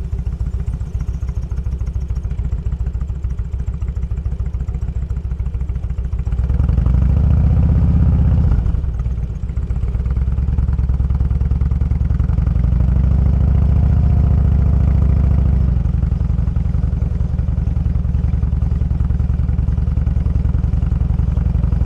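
Motorcycle engine running at low road speed with an even, low beat; the throttle opens about six seconds in, the engine note drops briefly near nine seconds as if on a gear change, pulls again until about sixteen seconds, then eases back to a steady cruise.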